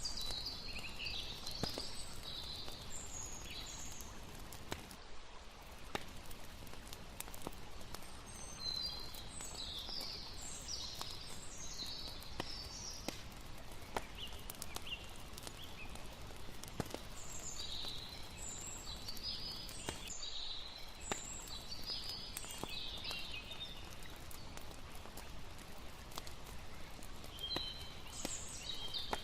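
Layered night-time campsite ambience: a campfire crackling, with irregular sharp pops, over a soft steady background. Clusters of high chirping calls come and go throughout.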